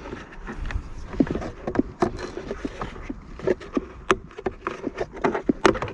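Irregular clicks and knocks from a Homelite leaf blower's housing being handled and worked on by hand during disassembly.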